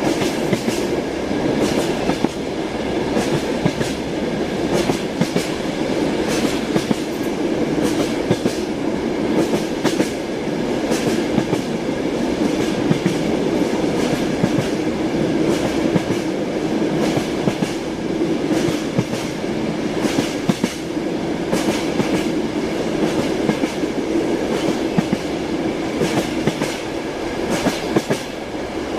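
A moving train's wheels clattering over the rail joints, with a steady rumble and irregular sharp clicks throughout.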